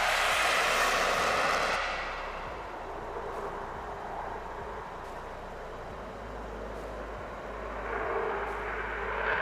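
Military jet aircraft engine noise during a takeoff: a loud, even roar that drops away about two seconds in to a lower rush, then builds up again near the end.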